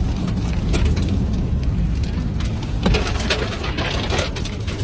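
Bushfire front passing over a fire truck, heard from inside the cab: a steady low rumble with frequent sharp crackles and taps.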